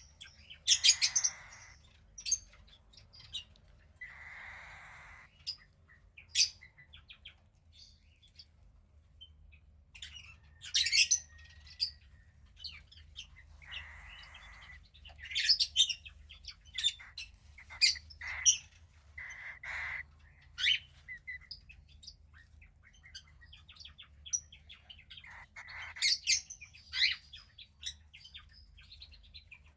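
Cockatiel chick about two weeks old calling: repeated raspy, hissing calls about a second long, with many short sharp chirps and clicks between them.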